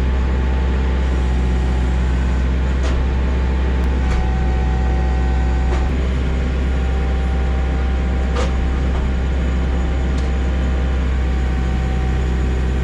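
Kioti RX 7320 tractor's diesel engine running steadily at operating temperature, its temperature gauge sitting in the normal range after the clogged radiator was blown out. A few faint clicks sound over the steady engine.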